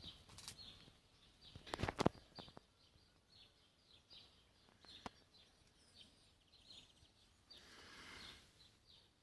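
Small birds chirping repeatedly in short high notes, with a few sharp clicks about two seconds in and a brief rustle near the end.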